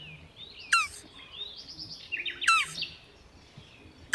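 Bird calling: three sharp whistled calls, each sweeping steeply down in pitch, with softer gliding chirps between them.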